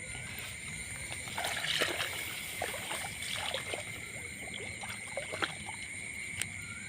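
Water splashing and trickling: a cluster of short splashes a second or two in, then a few more later.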